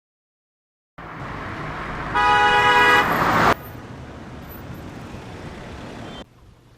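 A car horn honks once, a held blast of about a second, over steady road and traffic noise. The noise starts abruptly about a second in and cuts off abruptly near the end.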